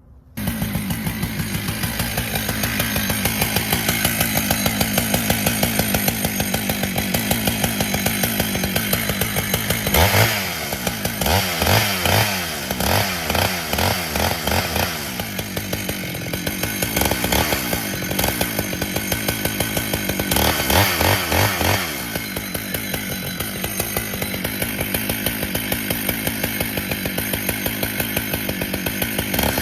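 Husqvarna 395XP two-stroke chainsaw running hard while bucking a knotty white oak log. It cuts in suddenly right at the start. Through the middle stretch the engine pitch dips and recovers again and again as the chain loads up in the wood, then it runs steadier toward the end.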